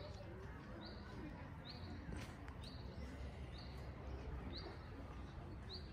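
A small bird giving a short, high chirp about once a second, very evenly spaced, over steady outdoor background noise and faint distant voices.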